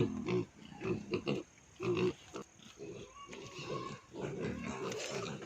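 An animal's repeated low calls in short bursts, about one a second.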